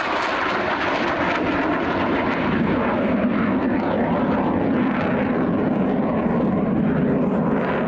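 Fixed-wing aircraft flying by, its engine noise steady and loud, with the pitch lower from about two and a half seconds in.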